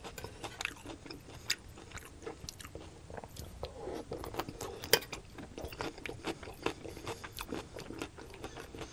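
Close-miked chewing of stir-fried bok choy and celery: repeated wet crunches and bites, one sharper crunch about five seconds in, and a spoon scraping the plate.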